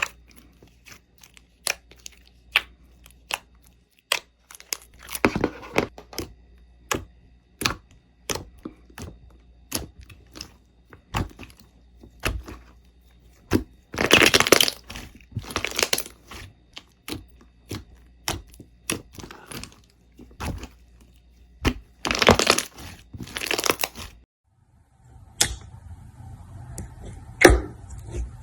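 Slime being handled with crunchy crackling and popping: a string of sharp pops, with three denser stretches of crackling about five, fourteen and twenty-two seconds in.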